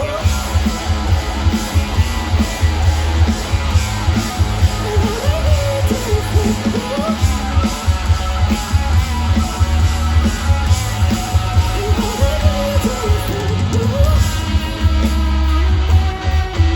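Live rock band performing loudly, with guitars, bass and drums and a sung melody.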